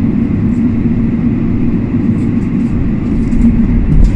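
Steady low rumble of a moving Matterhorn Gotthard Bahn passenger train heard from inside the carriage, with a held hum and a few faint light ticks.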